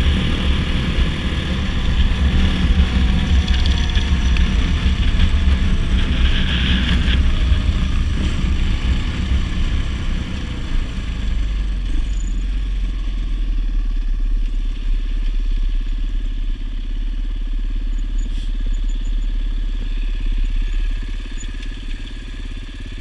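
Dirt bike engine running while riding, the sound easing down to a quieter, steadier level about halfway through.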